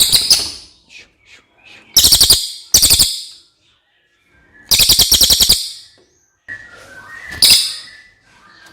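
A cililin singing: short bursts of rapid, high-pitched trilled notes, five phrases with pauses between them, the longest lasting about a second.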